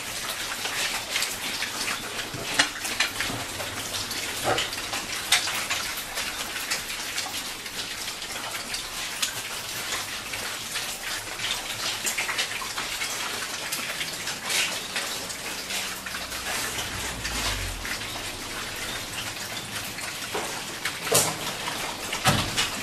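Pigs eating ripe pawpaw: irregular wet smacking and chomping clicks over a steady background hiss.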